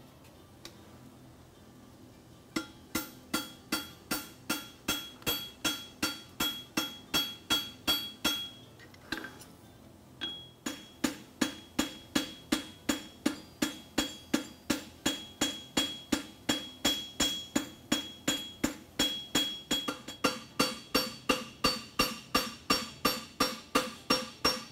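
Hand hammer striking hot steel on an anvil, about three blows a second with a ringing note: a farrier forging a horseshoe. The hammering starts a couple of seconds in, stops briefly near the middle, then goes on again.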